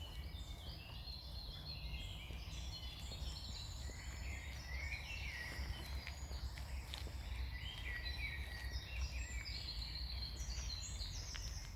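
Several songbirds singing at once, many short overlapping phrases and chirps throughout, over a steady low rumble.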